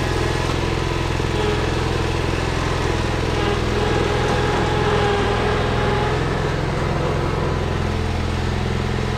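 Truck engine running steadily as the truck backs into position.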